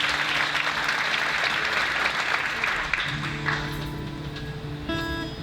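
Audience applauding, dying away after about three seconds as an acoustic guitar begins playing sustained notes.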